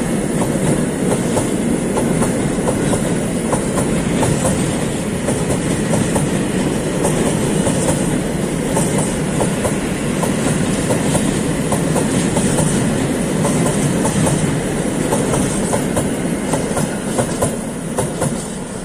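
Long freight train of high-sided open wagons rolling past close by: a steady rumble of wheels with rapid clicks over the rail joints. It fades as the last wagon goes by near the end.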